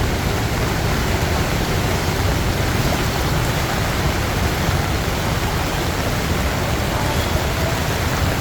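Heavy monsoon downpour: a steady, dense hiss of rain with a low rumble underneath.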